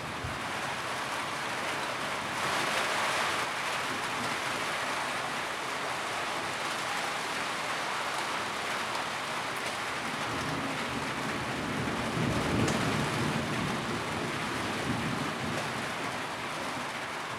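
Steady rain drumming on a tin roof, a dense even patter, with a low rumble swelling and fading about two-thirds of the way through.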